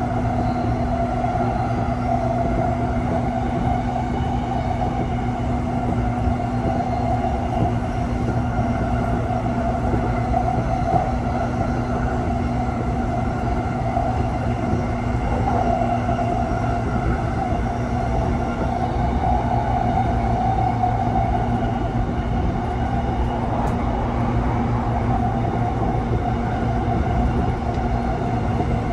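Running noise inside a JR East E233-0 series electric train's motor car: a steady rumble of wheels on rail and car body noise while it runs between stations at an even speed.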